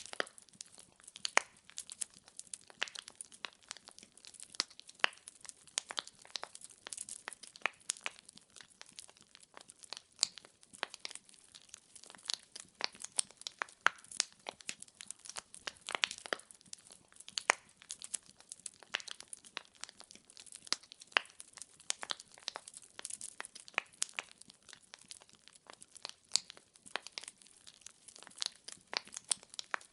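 Wood fire burning in a fireplace: a dense, irregular crackle of snapping logs, with occasional louder pops.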